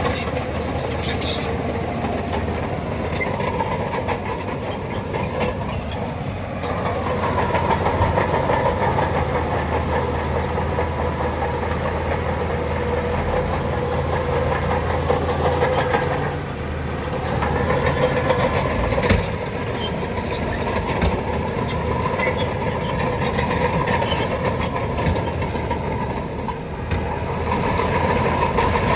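Bulldozer's diesel engine running steadily, its note swelling and easing as the load changes, with a sharp knock about two-thirds of the way through.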